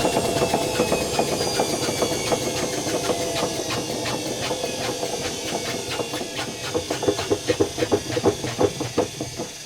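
Zanussi FC1000 compact washing machine's drum and motor slowing down at the end of a spin: a falling whine, with a rhythmic knocking that slows and stands out from about seven seconds in before the sound fades.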